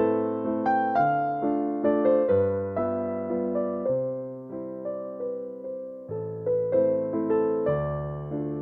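Background music: slow, gentle solo piano, notes struck and left to ring in a flowing melody over sustained bass notes.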